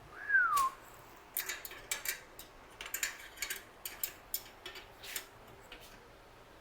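Hand tools and small metal parts clicking and clinking irregularly as bolts are worked on a bike fork. Near the start there is one short high squeak that rises and then falls.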